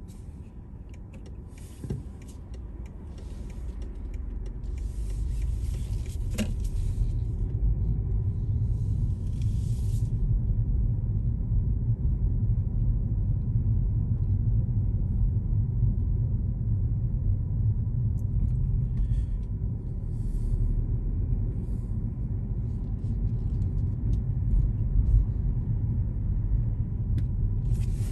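A car driving, with a low steady rumble of road and engine noise that builds over the first few seconds as it picks up speed. Brief hissing swishes come and go over it a few times.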